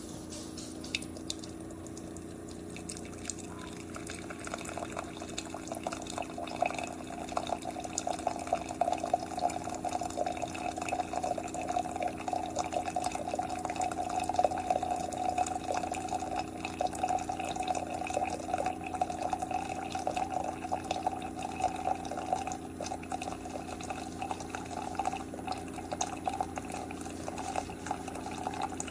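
Keurig K-Duo Plus single-serve brewer brewing into a cup: the machine's steady pump hum, with hot coffee streaming and spattering into the mug. The pouring sound grows louder about six seconds in.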